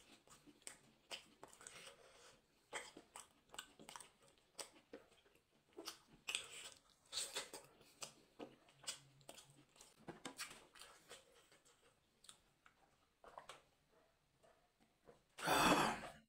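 Close-miked chewing of meat eaten by hand: a string of wet smacks and clicks from the mouth. Near the end comes one brief, much louder noise.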